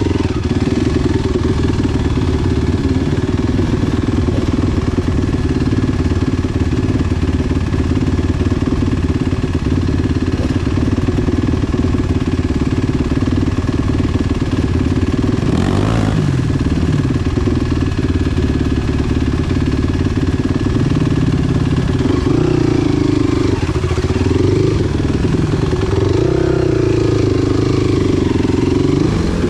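Enduro motorcycle engine running continuously under way, its pitch rising and falling with the throttle, with a quick rise-and-fall sweep about halfway through and more swings near the end.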